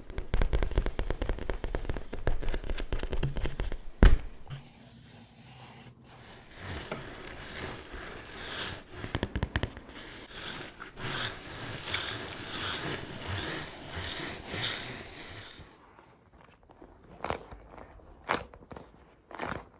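ASMR tapping and scratching by hand on objects: rapid dense tapping, one louder knock about four seconds in, then a long stretch of slow scratching with crackly rustling, and a few separate taps near the end.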